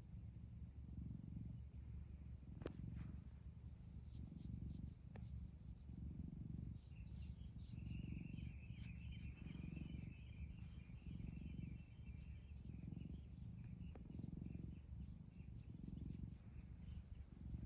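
Domestic cat purring close by, the low rumble swelling and fading about once a second with each breath in and out. A faint high trilling chirp runs for a few seconds in the middle.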